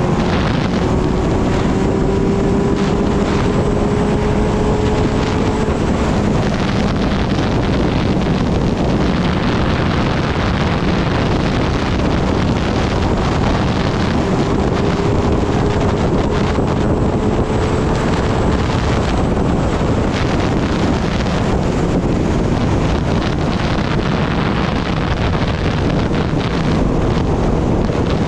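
Steady wind rush on the microphone of a Kawasaki Ninja ZX-10R at road speed. The inline-four engine's note sits faintly beneath and twice climbs slowly in pitch as it pulls.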